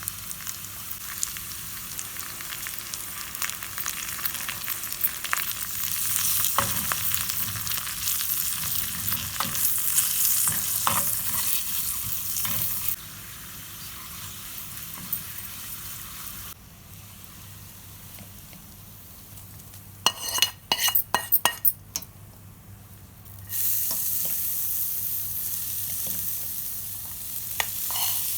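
Food sizzling in oil in a pan while being stirred, with small crackles through the hiss. The sizzle drops away abruptly partway through, a quick run of sharp clinks comes about 20 seconds in, and the sizzle returns near the end.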